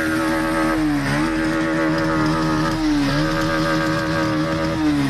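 Single-cylinder motorcycle engine revved and held at high revs, with two brief dips in pitch, then dropping back toward idle near the end.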